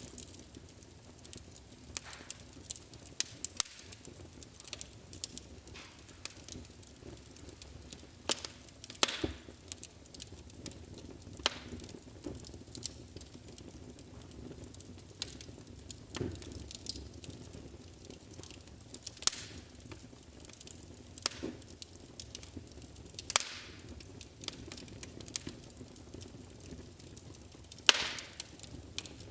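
Wood fire burning in a fireplace, with a low steady rumble of flame under irregular crackles and sharp pops. The loudest snaps come a few seconds apart, the last one near the end.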